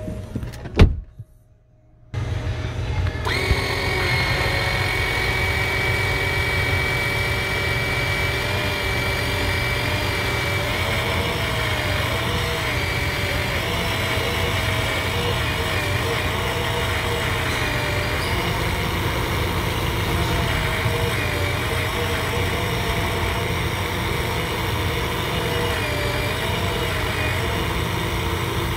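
A sharp click, then a brief gap, then a car engine running steadily with a low rumble and a whine that wavers slightly in pitch.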